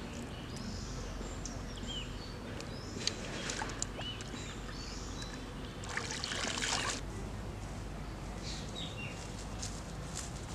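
Outdoor ambience: repeated short bird chirps over a steady low hum, with scattered clicks and a brief noisy burst about six seconds in.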